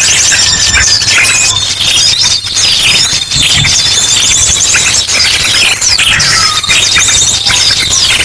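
Bird-lure recording: a dense, loud chorus of many small birds chattering and chirping at once, mixed with rapid trilled call series of an ashy drongo.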